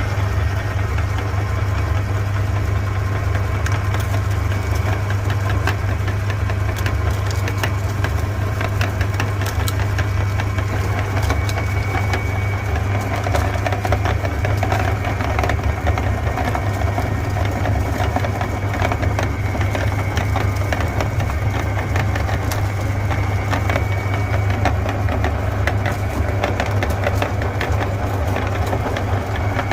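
Electric meat grinder running steadily with a low motor hum and a constant fine crackle as it grinds chocolate marshmallows.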